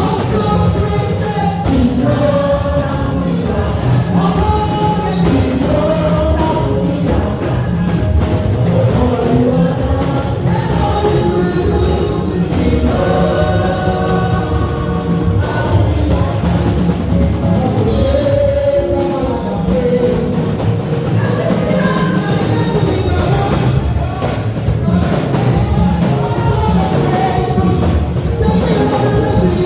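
Gospel praise music: a choir and singers over a loud, steady band, with a beat running throughout.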